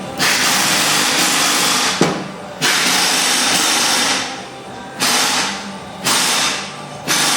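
A power tool running in repeated bursts of about one to two seconds each, five times, with short pauses between, over background music.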